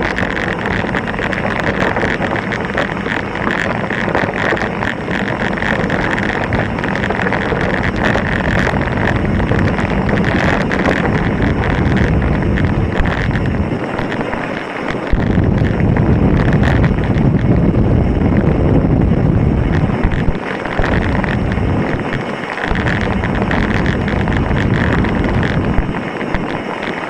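Mountain bike descending a rocky, loose trail: continuous rattling and clatter of tyres and bike over stones, under heavy wind noise on the microphone, which grows stronger from about halfway in.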